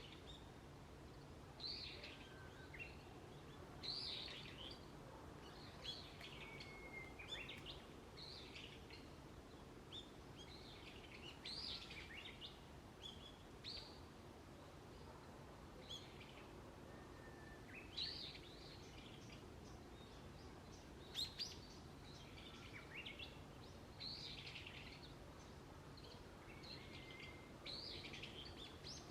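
Wild birds calling: many short, high chirps and calls, some sliding downward, every second or two, faint over a low steady background hum.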